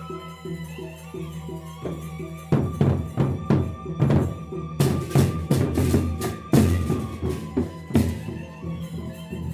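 Gendang beleq ensemble playing: a suling bamboo flute holds a sustained melody over a steady drum pulse, then about two and a half seconds in the big gendang drums and cymbals come in with a run of loud accented strokes for several seconds before easing back to the steady pulse near the end.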